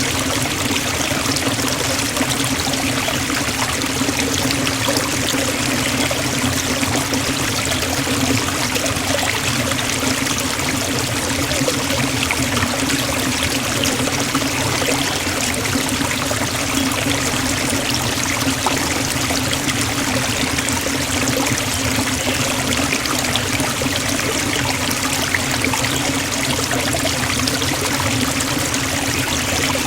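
Forest waterfall: water falling and rushing in a steady, unbroken roar.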